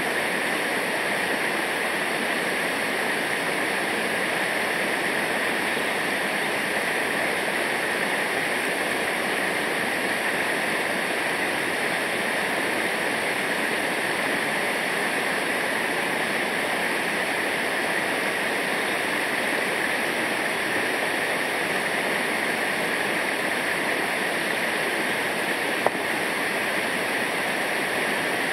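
Rushing river water, a steady, unbroken rush of whitewater.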